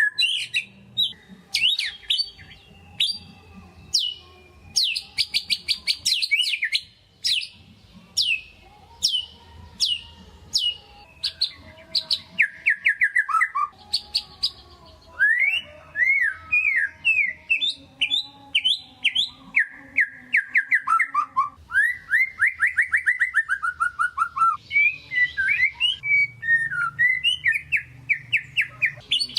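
White-rumped shama (murai batu) in full, vigorous song: a continuous run of loud, varied phrases made of fast down-slurred whistles and rapid trills, one after another without a break.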